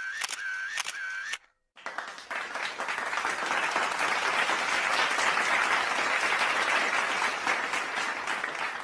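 Crowd applause sound effect: many hands clapping, starting about two seconds in after a brief silence and building to a steady level. Before it, a repeating clicking effect with a short chirping tone cuts off.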